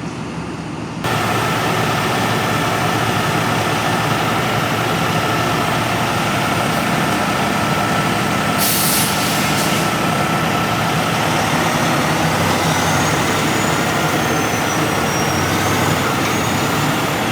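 Heavy diesel engines of large forklifts and a semi truck running under load. The engine noise steps up about a second in. A short hiss of air brakes being released comes about nine seconds in.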